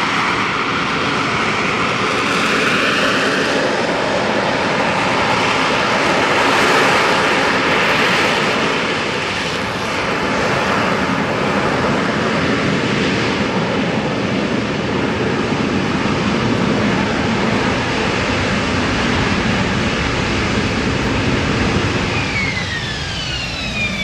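AV-8B Harrier II+ jet's Pegasus turbofan engine running loud and continuous, a roar with steady whining tones through it. Near the end a high whistle glides down in pitch.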